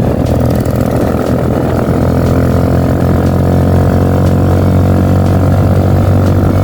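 An engine running at a steady speed, a deep continuous drone.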